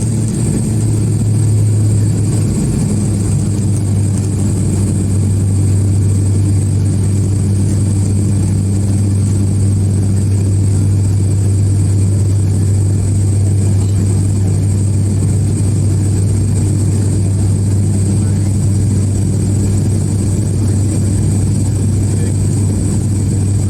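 Steady drone of a turboprop airliner's engines and propellers heard inside the cabin in flight, a deep hum that settles slightly lower in pitch in the first few seconds.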